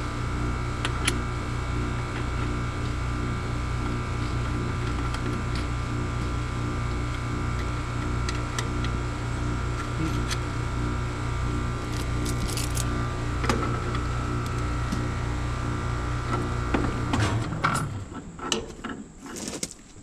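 Newly installed HVAC system running with a steady motor hum and drone, then shutting off suddenly about 17 seconds in, followed by a few clicks and knocks of handling.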